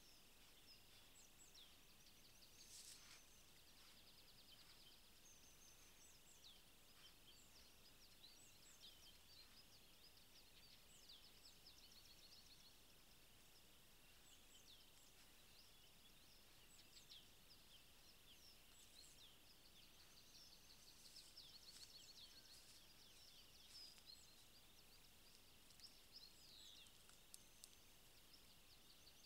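Faint songbird chorus: many short chirps, whistled sweeps and trills from several birds, over a steady high hiss.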